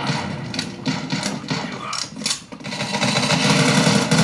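Video game sound effects played through the Armaggeddon X-Bar 2 soundbar: a quick run of sharp clicks or impacts over the first two and a half seconds, then a steady mechanical hum.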